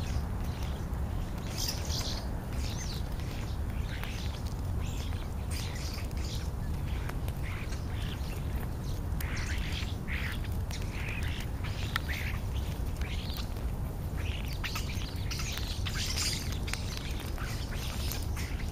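A flock of European starlings calling, with many short chirps, squeaks and harsh squawks overlapping irregularly, busier in the middle and near the end.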